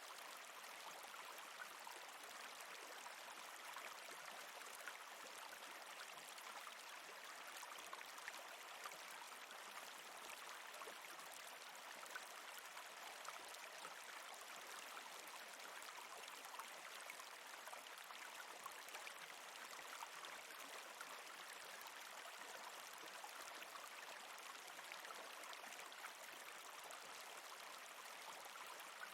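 Faint, steady running-water ambience with small ticks scattered through it.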